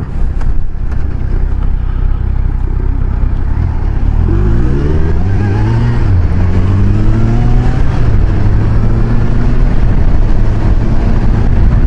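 Kawasaki Versys 1000 inline-four engine pulling away and accelerating, its pitch rising about four seconds in, shifting up a gear around six seconds and rising again, then settling to a steady cruise. Wind rushes over the helmet-mounted microphone throughout.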